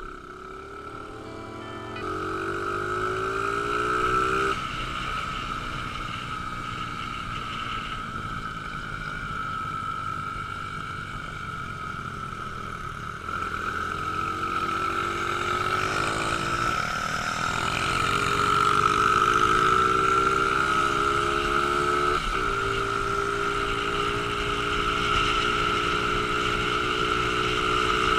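Small 70cc pit bike engine under way, its revs climbing and then dropping back sharply a few times as it shifts up through the gears.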